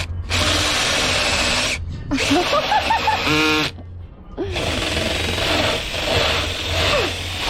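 Electric drill with a large hole saw running and cutting through the fibreglass boat hull, stopping briefly three times. Music plays along with it.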